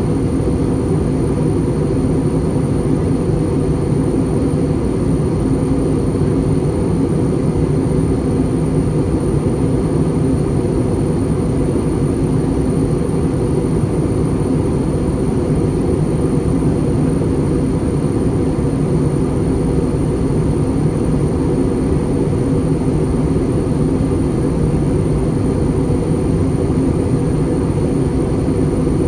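Steady cabin noise inside an Airbus A320 airliner in flight: an even low drone of engines and rushing air, with a thin steady high whine above it.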